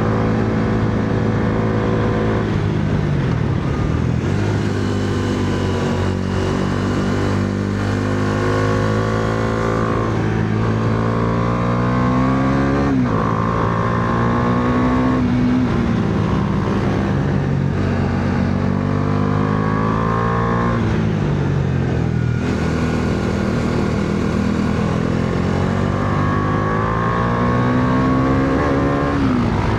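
Bajaj Dominar 400's single-cylinder engine pulling hard under throttle. Its pitch climbs steadily and then drops sharply, about five times, as the bike accelerates and backs off through the curves.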